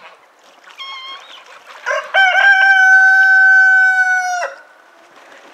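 Rooster crowing: a short call about a second in, then one loud note held for about two and a half seconds that dips slightly as it ends.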